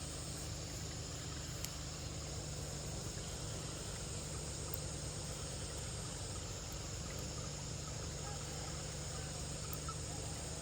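Steady outdoor ambience: an even rushing hiss with a thin, steady high-pitched tone above it and a few faint ticks.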